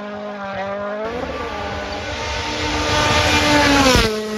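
Car engine running with a steady note, then revving up under a loud hissing tyre squeal that cuts off sharply near the end, like a racing drift sound effect.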